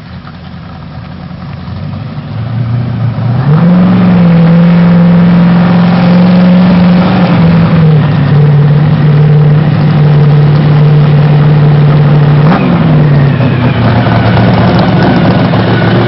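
Dodge Challenger's Hemi V8 engine, getting louder over the first few seconds and then running very loud. Its note holds steady and steps down in pitch twice, once about halfway through and again near the end.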